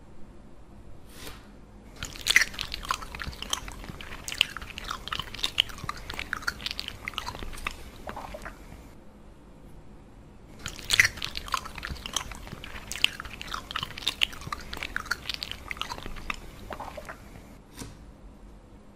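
Close-miked crunchy biting and chewing in two long runs of crackling crunches, the first starting about two seconds in and the second about eleven seconds in.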